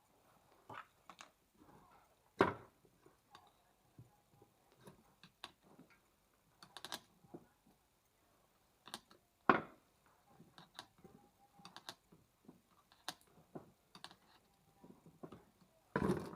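Irregular clicks and light knocks of tools and brake parts being handled during a caliper overhaul, with two louder knocks about two and a half and nine and a half seconds in and another near the end.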